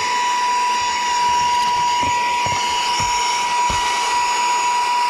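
Saker 3-in-1 cordless handheld mini vacuum with a brushless motor, running steadily with a high, even whine over a rushing airflow hiss. A few soft low knocks come in the middle of it.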